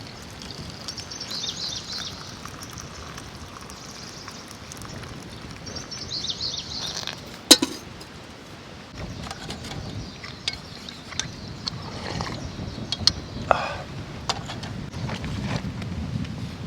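Outdoor background of wind and a low rumble with patches of high hiss, broken by one sharp clink about seven and a half seconds in and a scatter of lighter clicks and taps in the second half.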